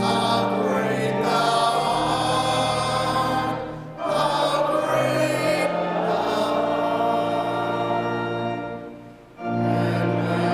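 Voices singing a hymn with organ accompaniment, sustained chords under the melody. The sound dips briefly between phrases, about four seconds in and again near the end.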